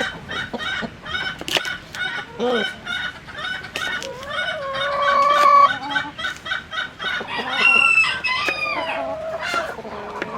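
Chickens clucking in quick, repeated short calls, with a longer drawn-out call about halfway through and a higher sliding call a little later.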